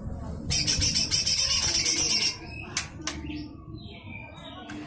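Cucak hijau mini (small leafbird) giving its harsh, rapid, high-pitched rattling call, the 'besetan kasar', for about two seconds, followed by a few short sharp chirps.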